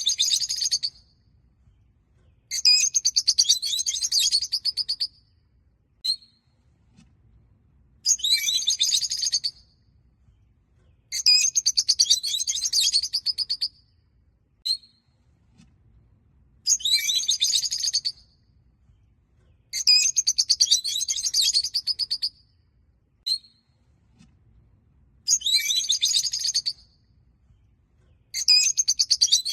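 Rosy-faced (peach-faced) lovebirds chirping in high-pitched bursts of rapid chirps, each about two seconds long and repeated every few seconds. Single short chirps fall between some of the bursts.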